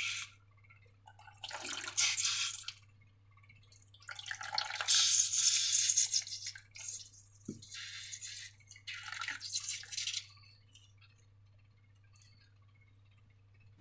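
Slime squelching wetly as it is squeezed and worked, in four or five bursts of a second or two each, over a faint steady low hum.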